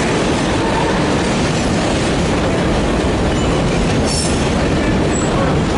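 Freight train rolling past close by, a steady loud din of wheels on rail, with brief high-pitched wheel squeals about four seconds in and again near the end.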